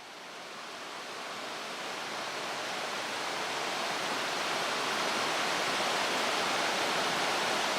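Mountain stream rushing steadily, fading in over the first few seconds.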